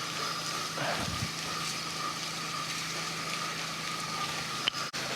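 Pressure washer running: a steady engine hum with an even hiss of water, broken by a brief dropout near the end.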